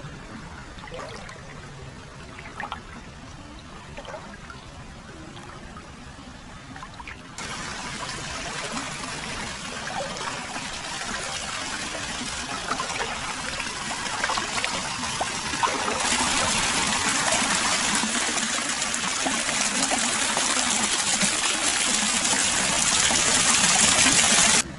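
Hot-spring water flowing continuously into a foot bath, trickling and splashing. It jumps louder twice, about a third of the way in and again past halfway, and cuts off abruptly at the end.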